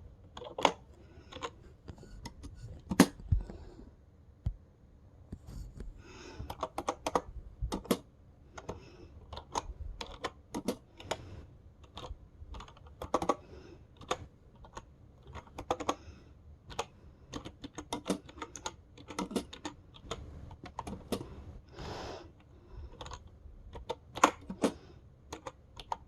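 Typing on a wireless typewriter-style keyboard: irregular runs of clicking keystrokes, with a few sharper, louder key strikes.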